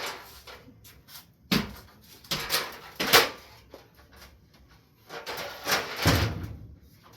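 A few sharp knocks and clunks, with a longer scraping clatter about two-thirds of the way through, as things are handled during shelf installation work.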